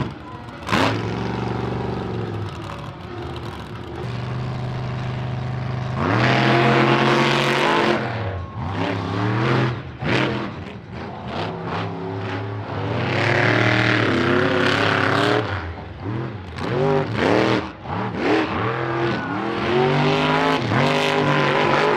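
Monster truck engines running during a drag-style race: a steady idle at first, then hard revving from about six seconds in. After that come repeated rising and falling revs as the trucks accelerate and lift.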